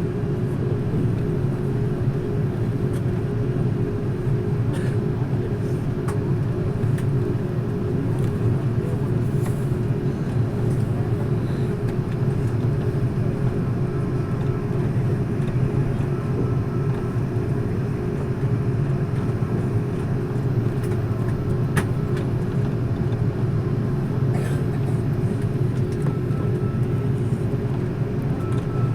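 Steady drone of an Airbus A330-300 heard from inside the passenger cabin: engine and airflow noise with a low hum and a faint steady tone, with a few light ticks.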